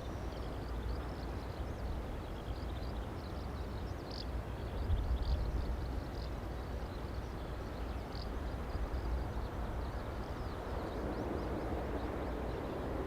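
Strong gusting wind buffeting the microphone with a low rumble that swells and eases, and faint high bird chirps scattered throughout.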